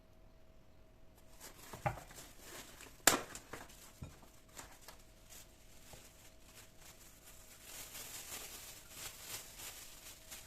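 Kitchen handling noises: a knock, then a sharp click about three seconds in that is the loudest sound, followed by light clicks and a stretch of rustling near the end, over a faint steady hum.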